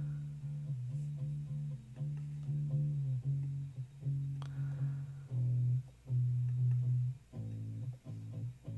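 Recorded bass guitar line playing back through a mixing desk: a run of plucked low notes, each held briefly, turning into shorter, choppier notes near the end.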